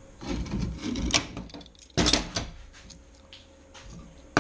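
Knocks and clatter of metal parts and tools being handled and set down, with one sharp, loud knock about two seconds in.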